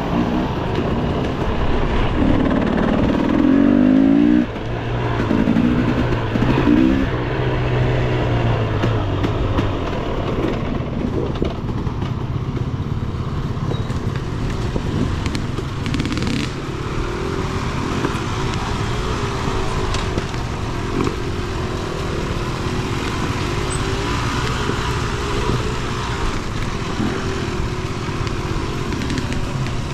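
Dirt bike engine revving up and down over the first ten seconds or so, then running steadily at lower revs.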